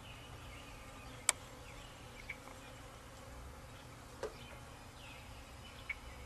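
Honey bee swarm buzzing faintly and steadily, with short chirps above it. A sharp click about a second in and a softer knock a few seconds later stand out.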